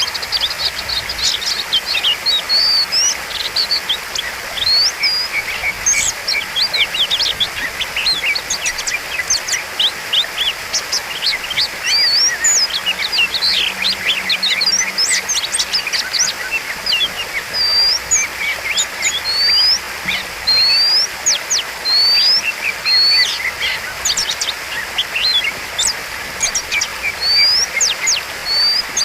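Oriental magpie-robin (kacer) singing in full voice: a fast, unbroken run of varied whistles and chirps, many notes sliding upward, over a steady hiss.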